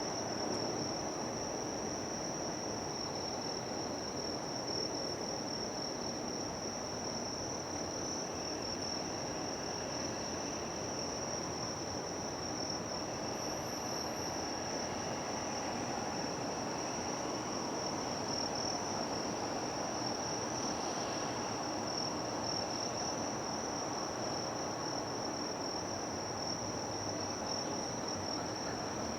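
Insects trilling in one steady, unbroken high-pitched note, over a low, even background rumble of harbour and city.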